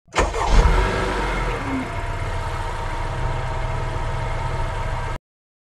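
Car engine sound effect: the engine catches with a brief rev, then idles steadily with an even low beat, and cuts off abruptly about five seconds in.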